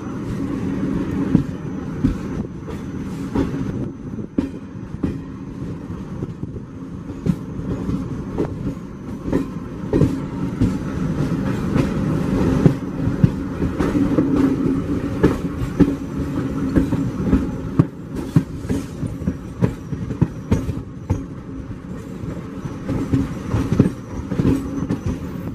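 Moving train heard from aboard a carriage at an open door: a steady rumble with the wheels clattering and clicking irregularly over the track.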